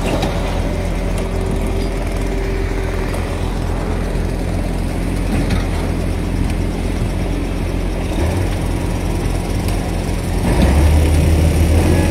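An engine running steadily with a low hum. It grows louder and deeper about ten and a half seconds in.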